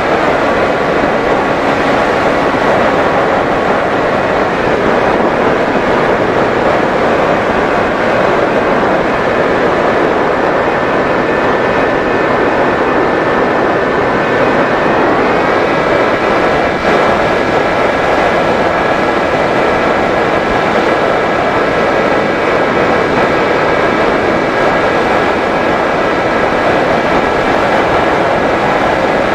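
Electric motor and propeller of a Mini Drak RC flying wing running in flight, a steady whine over a constant rush of air. The whine's pitch drops slightly about five seconds in and rises again around fifteen seconds in as the throttle changes.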